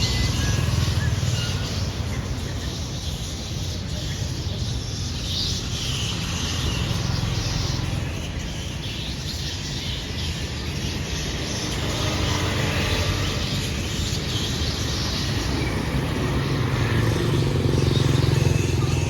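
A large flock of birds chirping and chattering together in a tree, over the steady rumble of road traffic.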